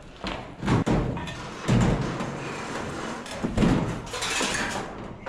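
A handful of heavy thumps and knocks, like objects or a door being banged about, with a stretch of scraping or rustling near the end.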